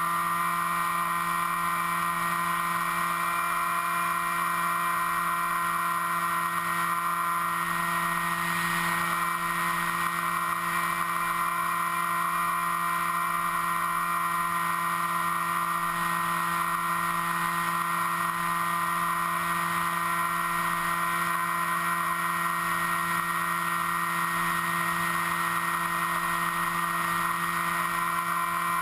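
Onboard sound of a radio-controlled FPV aircraft's motor and propeller running at steady throttle: a constant whine of several held tones, with a brief rise in rushing hiss about eight seconds in.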